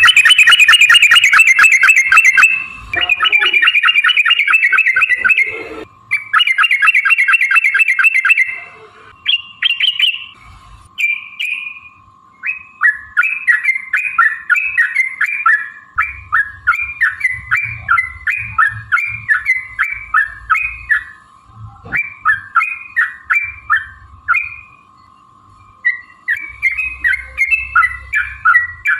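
Yellow-vented bulbul (trucukan) song: a long, fast rattling chatter in three bursts over the first eight seconds or so, then a run of short bubbly chirps repeated about twice a second.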